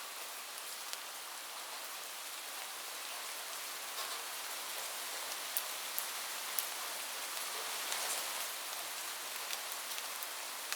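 Steady rain on a roof, an even hiss with a few sharper drops ticking out above it, three of them close together just past the middle.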